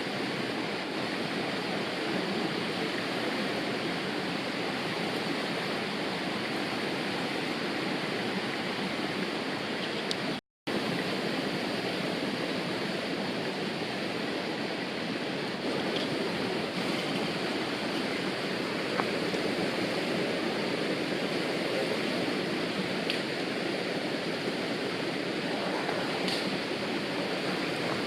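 River water rushing steadily over rocks. It cuts out for a split second about ten seconds in.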